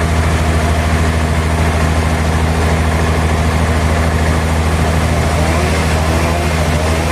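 Heavy sawmill machinery running at a steady speed, a constant low hum. Near the end a faint wavering whine rises and falls over it.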